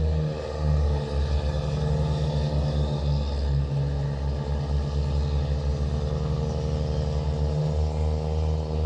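Massey Ferguson 390 Turbo tractor's turbo diesel engine running steadily through a twin exhaust, with a low pulsing drone and a brief swell in level about a second in.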